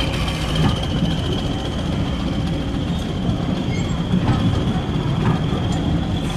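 Diesel-hauled heritage train running: a steady low engine rumble with a thin, steady high whine and light clicks from the rails.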